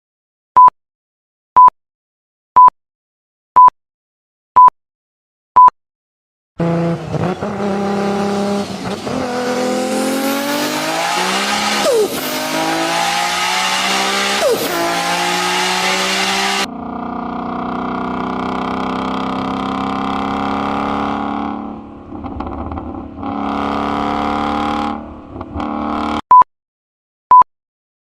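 Short electronic timer beeps, about one a second, then a high-performance car engine accelerating hard, its pitch climbing with sudden jumps between gears. This cuts abruptly to a steadier engine note that dips briefly twice, and the beeps start again near the end.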